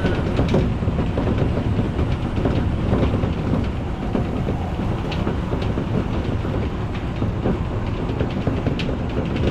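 Odakyu electric commuter train running at speed: a steady, heavy rumble of wheels on rail, with a few sharp clicks scattered through it.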